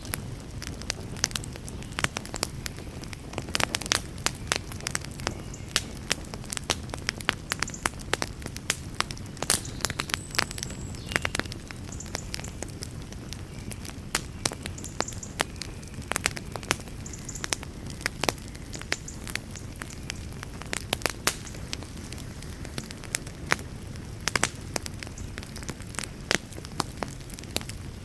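Wood campfire crackling and popping, with sharp irregular snaps several times a second over a steady low rush.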